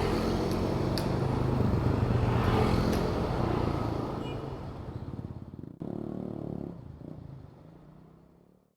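Honda Click 125 scooter's single-cylinder engine running under way, with road noise and a few light clicks, then fading away over the last few seconds with a brief break about six seconds in.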